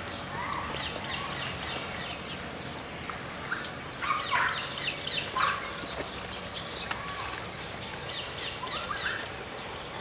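Birds calling: a quick run of short, high, falling chirps, loudest about four to five seconds in and thinning out in the second half.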